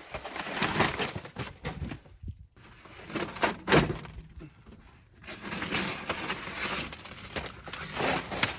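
Irregular crunching, rustling and knocking as old brittle material is pulled and broken out of an old truck, with a few sharper thunks.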